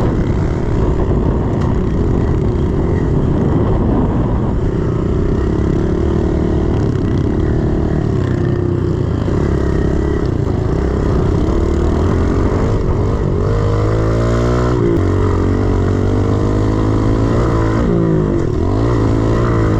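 A 110cc pit bike's single-cylinder four-stroke engine running hard while being ridden around a dirt track. The engine note climbs twice in the second half under throttle and falls away sharply in between when the throttle is rolled off.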